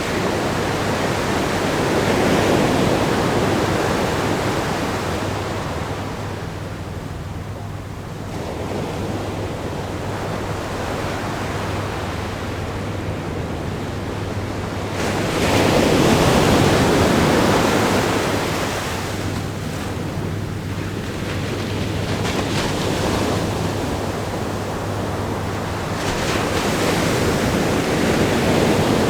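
Ocean waves breaking and washing against a rock groin on a sandy beach: a continuous surf rush that swells and ebbs, with the biggest wave breaking about halfway through and smaller ones near the start and near the end.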